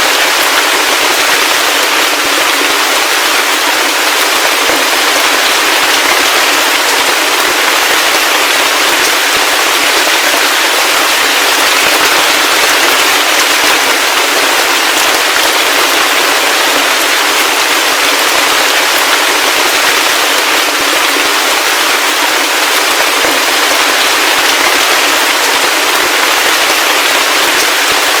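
Heavy rain falling steadily, a dense unbroken patter of drops with no low rumble.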